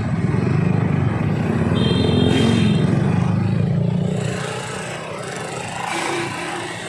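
Vehicle engines running in stop-and-go jammed traffic, a low rumble that swells over the first few seconds and then eases off. A brief high beep sounds about two seconds in.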